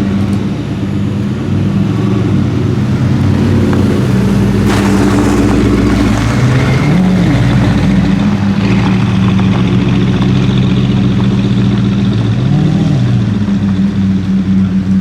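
Mercedes-AMG GT R's twin-turbo V8 through an Fi exhaust, running steadily with a few small rises and falls in pitch. A broader rushing noise joins about five seconds in.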